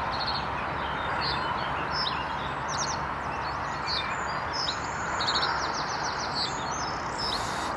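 Small songbirds chirping, with short high calls and a few quick trills, over a steady background hiss.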